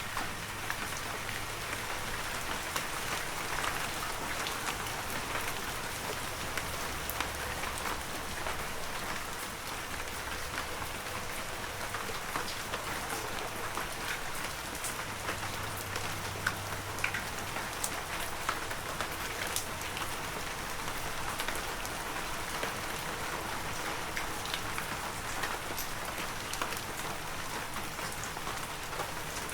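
Heavy rain falling steadily, an even hiss with many sharp individual drop ticks scattered through it.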